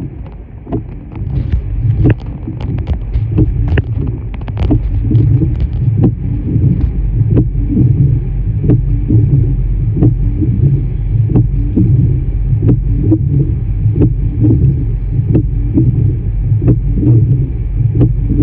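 A vehicle's low, steady rumble, with short sharp clicks on top. The clicks come irregularly at first, then settle from about six seconds in to an even beat of about one and a half a second.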